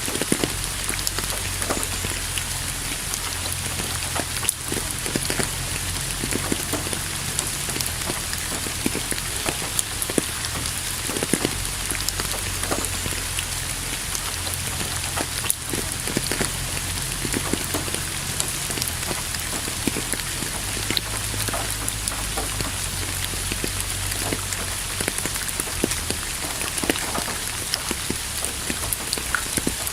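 Steady rain falling, with many individual drops pattering close by and a low rumble underneath.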